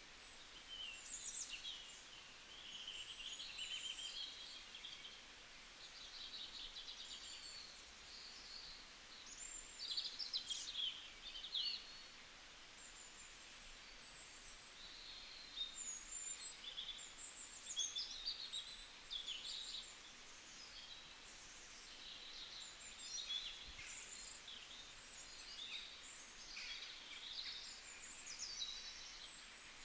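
Small songbirds chirping and singing, many short high calls and trills overlapping one another, with a couple of quieter spells between bouts.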